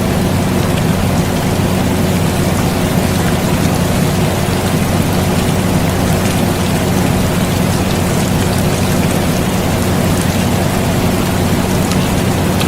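Air conditioner running with a steady low hum, mixed with steady rain with faint scattered drop ticks.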